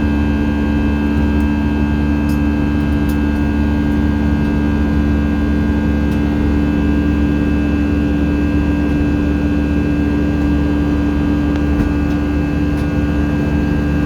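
Steady cabin drone inside an Airbus A319 airliner: jet engine and airflow noise, a constant hum with several steady tones over a low rumble.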